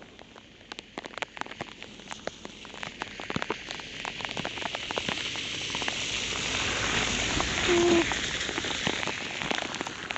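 Heavy rain: many separate drops tick sharply against the body-worn camera and coat, over a steady rain hiss that grows louder from about four seconds in.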